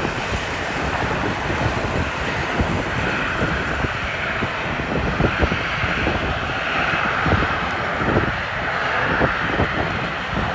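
Jet engines of a Boeing 737-800 (CFM56 turbofans) running steadily, with wind buffeting the microphone in gusts.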